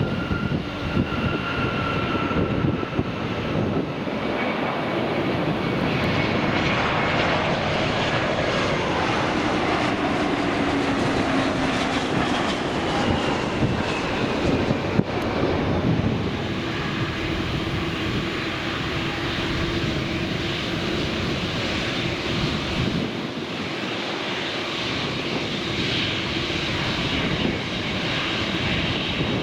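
Large jet airliner's engines passing the runway side: a steady, loud rush of jet noise with whining engine tones that slowly fall in pitch as the aircraft goes by.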